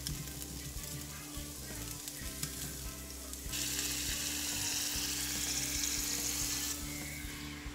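Cubed tofu frying in hot oil in a frying pan, a steady sizzling hiss that grows much louder about halfway through for some three seconds, then eases back.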